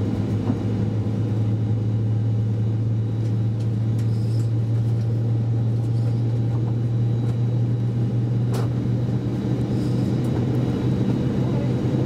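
Steady low hum in the cabin of an Airbus A320 standing on the ground, with one short click about eight and a half seconds in.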